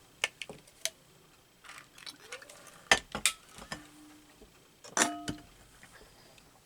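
A drink container being handled and set down on a hard tabletop: a few sharp clinks and knocks. The loudest come about three and five seconds in, with a brief ringing after them.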